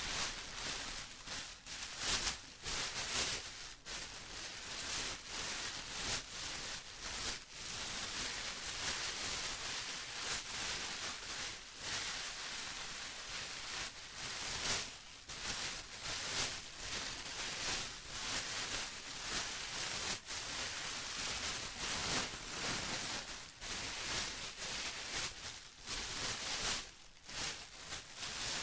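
Plastic being rustled and crinkled continuously, in irregular crackling bursts.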